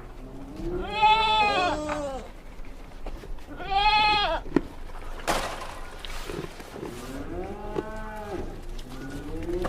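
Farm animals calling in turn: about four loud bleating cries, each about a second long, rising then falling in pitch, with two voices overlapping at times.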